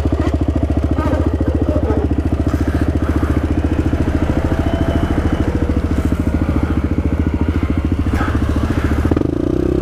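Suzuki DR-Z400S single-cylinder four-stroke engine running under way at steady, moderate revs, its firing pulses even, with the engine note changing pitch slightly near the end.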